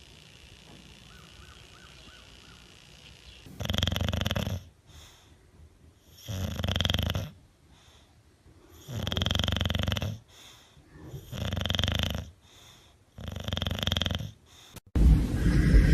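A dog snoring loudly, five long snores about every two and a half seconds.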